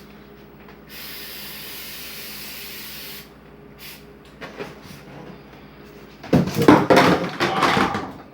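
An aerosol spray can hissing in one steady spray of a couple of seconds, starting about a second in. Near the end comes a louder burst of clattering and knocking as things are handled.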